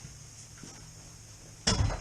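A single loud clunk, likely metal on metal, near the end, against a faint steady hum.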